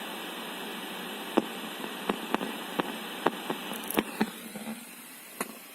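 Car speaker giving out a steady hiss of static from a PVT 898 car wifi display, the sound fault being shown, with about eight sharp irregular clicks through the middle. The hiss falls away about four and a half seconds in.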